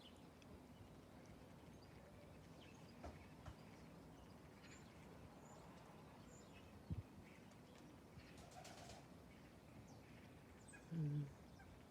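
Near-silent background with a few faint pigeon sounds: a short, low pigeon coo about a second before the end, and a single soft knock around the middle.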